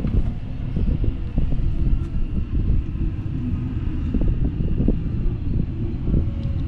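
Steady low rumble of a bicycle riding along a paved path, with wind buffeting the camera's microphone and tyre noise from the moving bike.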